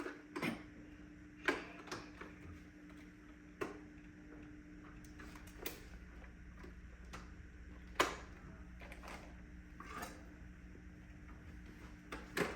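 Scattered sharp plastic clicks and taps, a second or two apart, as a new brush roll is fitted into the Shark DuoClean vacuum's floor head.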